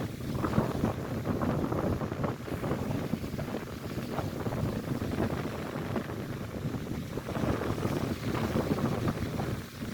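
Strong wind buffeting the microphone over the rush of lake waves breaking on the shore.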